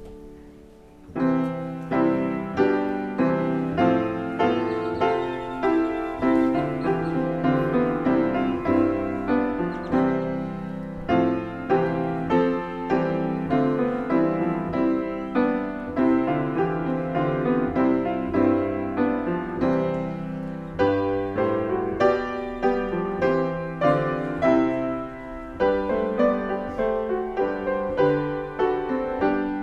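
Solo piano music: after a soft held chord, a new piece begins about a second in, with clear struck notes and chords that ring and fade.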